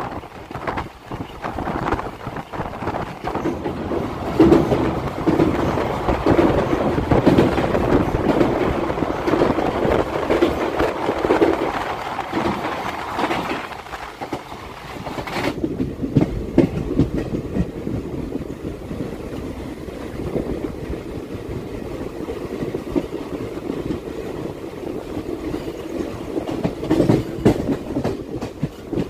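Passenger train coaches running at speed, heard from an open coach door: a steady rumble with wheels clattering over the rail joints. About halfway through, the sound turns suddenly duller.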